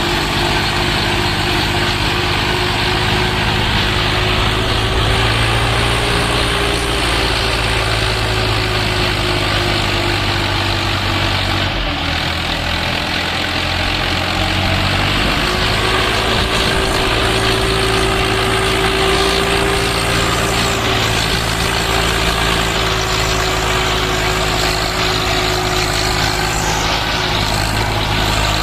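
Swaraj 855 FE tractor's three-cylinder diesel engine running steadily under load while hauling a fully loaded trolley. Its note drops briefly about twelve seconds in and picks back up a few seconds later.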